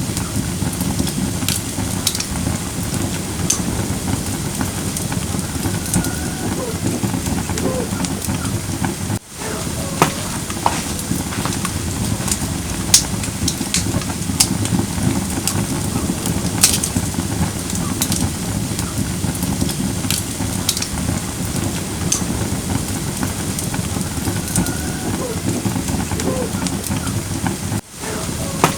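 Firewood burning in a fire pit: a steady hiss of flames with frequent sharp crackles and pops, a few louder than the rest. The sound briefly drops out twice, about nine seconds in and near the end.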